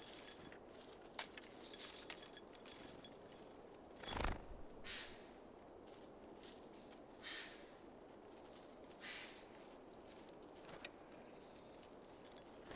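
Small garden birds at a seed feeder: faint high chirps and calls, scattered sharp taps and clicks, one louder thump about four seconds in, and a couple of short rustling bursts later on.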